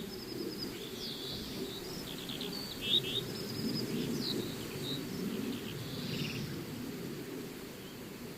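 Outdoor savannah ambience: many short, high bird chirps and trills over a low, steady hum of background noise.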